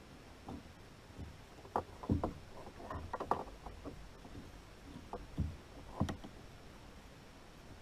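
Irregular light knocks, taps and handling noises against a kayak, with a faint steady background between them.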